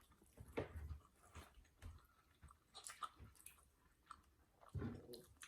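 Faint chewing and wet mouth clicks of a person eating, in short irregular bursts.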